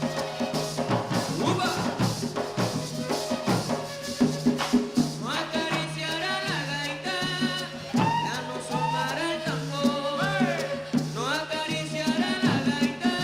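Colombian gaita music: cane duct flutes (gaitas) playing a melody over drums and a maraca keeping a steady pulsing beat. From about five seconds in, sliding rising notes come in over the beat.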